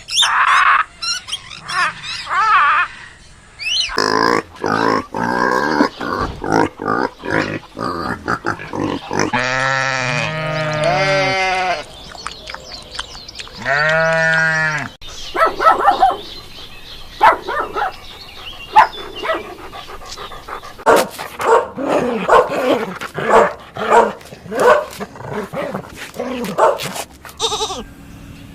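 A string of assorted animal calls from farm animals and pets, with many short sharp sounds and two long pitched calls that rise and fall near the middle.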